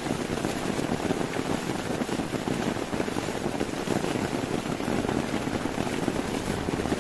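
Heavy rain falling steadily on a tent, a dense even patter with no let-up.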